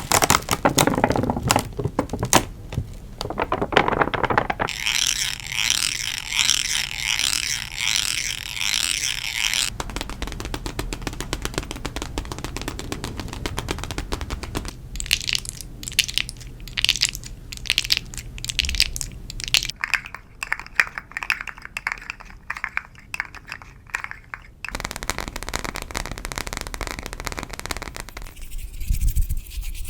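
Close-miked ASMR trigger sounds made by hand: rapid tapping and clicking alternating with stretches of fine crackling and rustling, the texture changing every few seconds.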